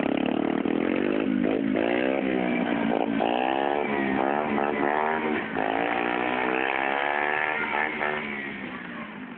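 Small dirt bike engine running under throttle, its pitch repeatedly rising and dropping as it revs up and falls back, then fading away near the end.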